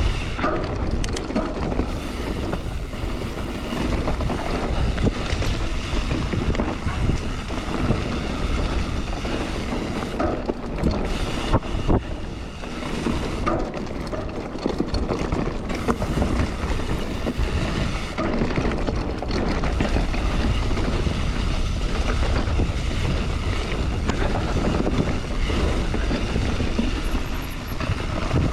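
Wind buffeting the microphone during a mountain-bike trail ride, with tyre noise and frequent clicks and knocks as the bike rattles over the rough ground.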